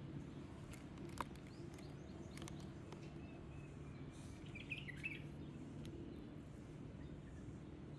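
A bird chirps briefly about halfway through, over a faint steady background with a few scattered sharp clicks.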